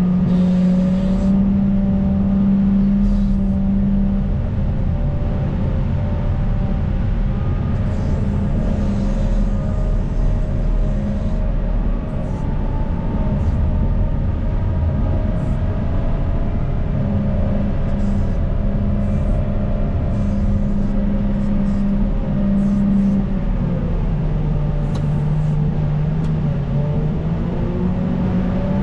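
CAT 926M wheel loader's diesel engine running steadily at working revs, its pitch dropping for a few seconds about three quarters of the way through and then rising again. A few brief clicks and knocks sound over it.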